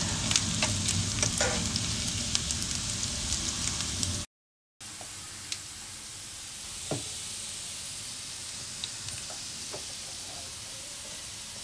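Coconut-oil tempering of shallots, garlic, curry leaves and dried red chillies sizzling in a frying pan as it starts to brown, with a steel spoon stirring and clicking against the pan. About four seconds in the sound cuts out for half a second, then a quieter steady sizzle follows with a few single spoon taps.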